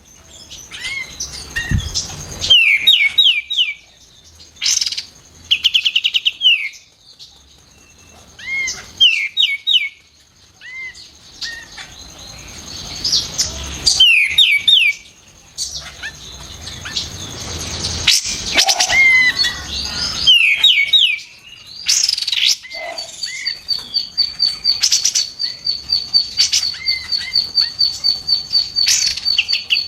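Kapas tembak bulbul singing: repeated quick bursts of sharp, falling whistled notes with scattered chirps, and in the second half a long run of evenly spaced high notes.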